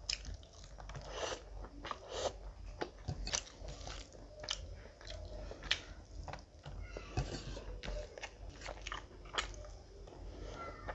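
Close-miked mouth sounds of a person chewing a large handful of rice and curry eaten by hand: irregular wet clicks, smacks and small crunches, with a fresh mouthful taken about halfway through.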